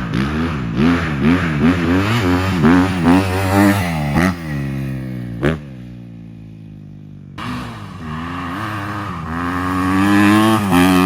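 A 250 dirt bike engine revving up and down in quick succession, with a sharp click about five and a half seconds in. After an abrupt cut, the engine pulls up in pitch again.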